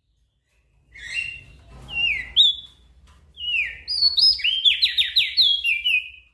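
Small songbird singing loud, fast phrases of short downslurred whistled notes, starting after about a second of silence and cutting off near the end.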